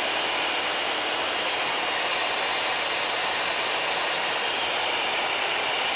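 Cabin noise of a single-engine Mooney M20K in cruise descent: engine and airflow heard as a steady, even hiss with no change in level.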